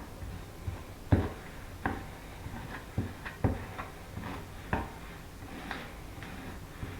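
A series of irregular light knocks and clicks, about eight in all, spaced unevenly; the sharpest comes about a second in.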